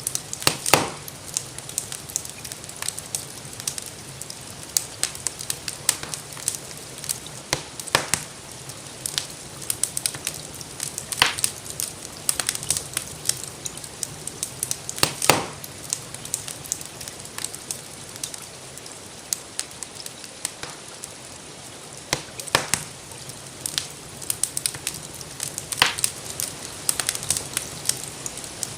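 Wood fire crackling in a fireplace, with many small pops and a louder snap every three to four seconds. Under it runs a steady soft hiss of gentle rain.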